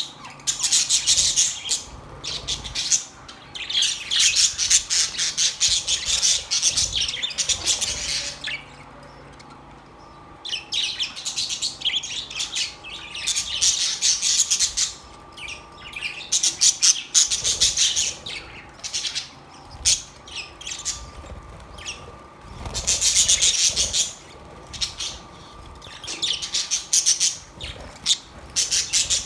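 A flock of budgerigars chirping and warbling in bouts of rapid chatter, with short quieter pauses between bouts.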